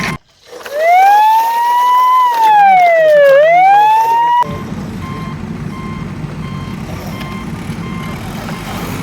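A siren wails, its pitch rising, falling and rising again over about four seconds, then cuts off suddenly. A steady truck engine rumble with faint, evenly repeating reversing beeps follows.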